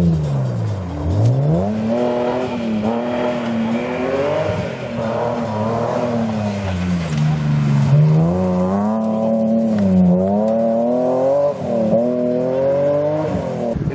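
Rally car engine revving hard, its pitch repeatedly climbing and dropping as the driver accelerates, lifts and changes gear.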